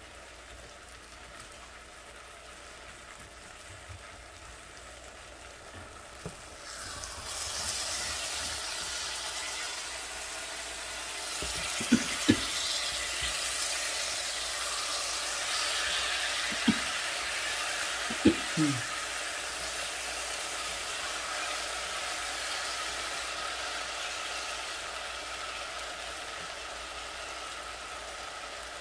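Vegetable stir fry sizzling in a frying pan. The sizzle is faint at first, swells about seven seconds in and grows louder again a few seconds later as a spatula stirs the food. There are a few short knocks of the spatula against the pan around the middle.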